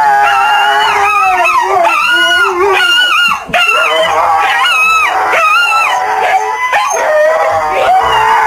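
Dog howling in long, wavering calls that slide up and down in pitch, with a short break about three and a half seconds in.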